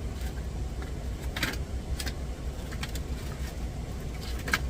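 Steady low rumble of an idling truck, heard inside the cab, with a few light clicks and knocks spread through it.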